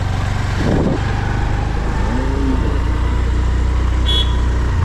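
Motorbike engine running steadily while riding, with a brief high-pitched tone about four seconds in.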